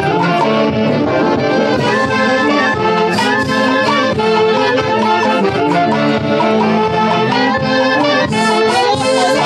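Live orquesta music played loudly by a wind band with saxophones and brass carrying a melody over a steady beat.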